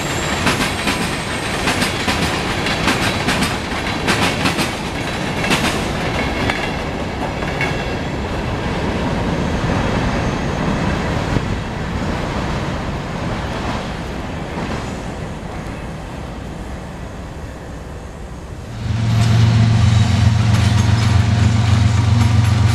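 Freight train cars rolling past, their steel wheels clacking and clicking over the rails, slowly fading. About three-quarters of the way through, this gives way suddenly to a much louder steady low rumble of CSX diesel road locomotives passing close by.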